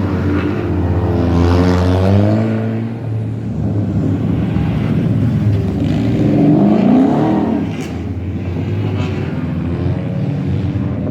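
Rally car engine revving hard, its pitch rising and falling in two main surges, about a second in and again around six seconds in, with a short sharp crack near eight seconds in.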